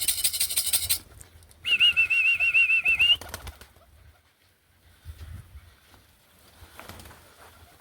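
A fast, even rattle for about the first second, then a loud wavering whistle held for about a second and a half: a keeper calling roller pigeons down to the loft. Afterwards only faint scattered sounds.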